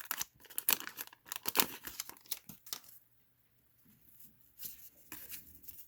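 Cardboard trading cards being handled and flipped through by hand, with crisp flicks and paper rustles packed close together for about three seconds, then a pause and a few softer rustles near the end.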